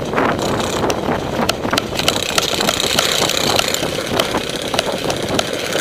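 Steady rumbling of wind and handling noise on a body-worn camera while the player moves out, with scattered sharp clicks.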